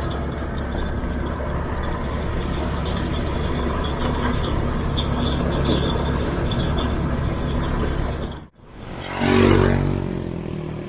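Motorbike engine running steadily under wind and road noise while riding. After a sudden cut near the end, a vehicle's engine swells loud and fades as it passes close by.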